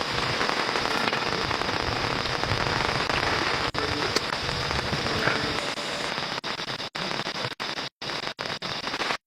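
Heavy rain falling steadily, a dense, even hiss. In the second half it keeps breaking off in brief dropouts.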